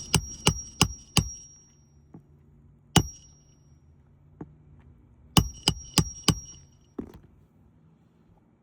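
Hammer striking roofing nails: a quick run of five blows at about three a second, a single blow, then another run of four and a last one. Each blow is a sharp metallic strike with a brief ring.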